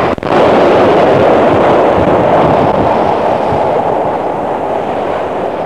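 Sydney 'Red Rattler' suburban electric train at Wynyard station, a loud steady running noise that eases slightly toward the end, heard on a 1969 cassette recording. A brief drop-out right at the start.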